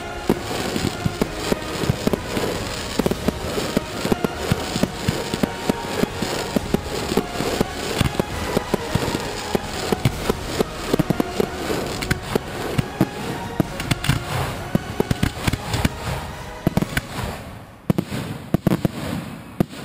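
Large fireworks display: a dense barrage of shells launching and bursting, many bangs a second in quick succession. The barrage thins briefly near the end, then a few last loud bangs.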